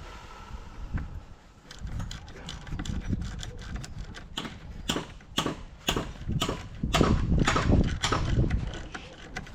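Irregular run of sharp metallic knocks and clicks, several a second, from hand tools and metal parts being worked during a corn head rebuild. They grow louder and denser in the second half.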